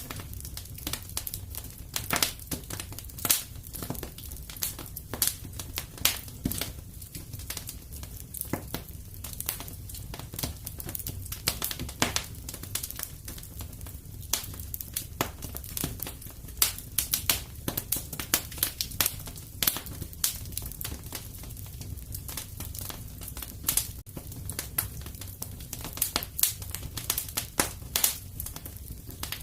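Fire crackling in a fireplace: irregular snaps and pops, several a second, over a low steady rumble.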